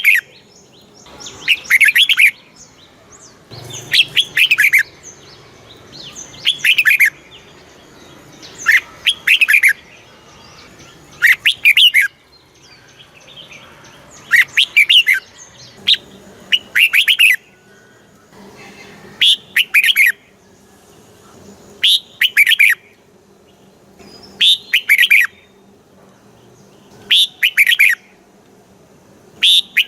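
Red-whiskered bulbul singing: short, loud, chirpy phrases, each about a second long, repeated every two seconds or so.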